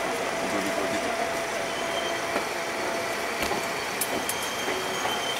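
Running sound inside the cab of a JR Central 211 series 5000 electric multiple unit rolling slowly along a station platform as it comes in to stop: steady running noise with one constant tone through it and a few faint clicks.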